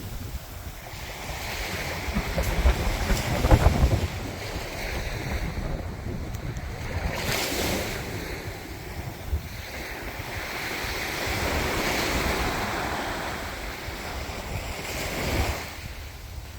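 Mediterranean waves washing onto the shore, swelling and falling back every few seconds, with sea breeze buffeting the microphone in low rumbling gusts, strongest about three to four seconds in.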